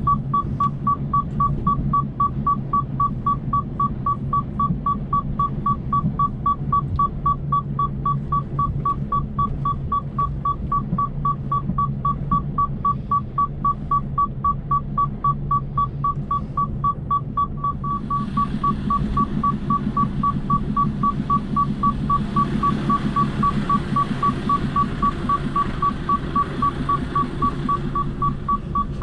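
Inside an HGV cab, the hazard warning lights' indicator sounds a steady, even beeping over the low hum of the lorry's engine. About 18 seconds in, heavy rain and road spray on the cab start to hiss, growing heavier from about 22 seconds and easing near the end.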